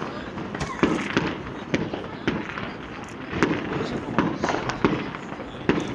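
Fireworks and firecrackers going off in the street: an irregular run of sharp bangs, about two a second, some near and loud, others farther off.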